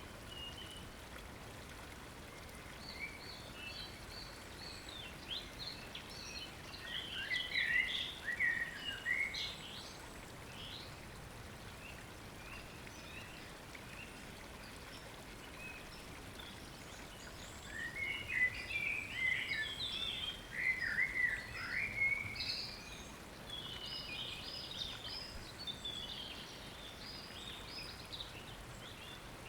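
Wild songbirds singing intricate warbling phrases in two bouts, one about a quarter of the way in and a louder one past the middle, with softer song after. A steady rush of stream water runs underneath.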